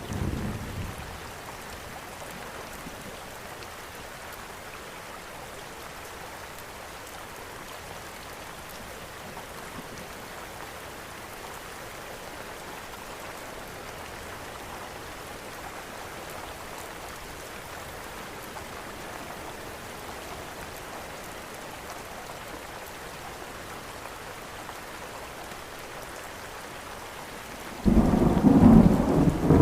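Steady rain. A low thunder rumble dies away in the first second, and near the end a much louder low roll of thunder breaks in.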